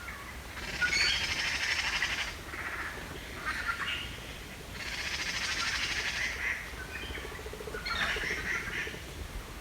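Birds calling, with two long rapid trills, about a second in and again around five seconds in, between shorter chirps.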